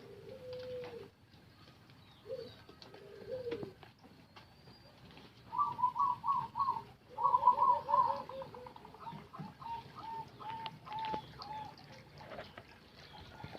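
Zebra doves (perkutut) cooing: a few low coos in the first seconds, then quick runs of higher staccato notes near the middle, the loudest part, slowing into evenly spaced single notes.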